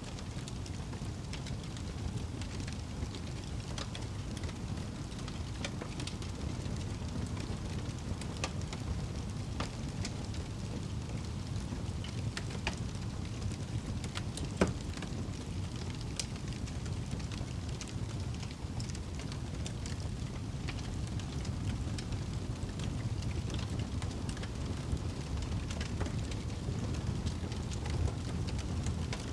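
Wood fire burning in a fireplace: a steady low rumble of flames with scattered crackles and one sharp pop about halfway through.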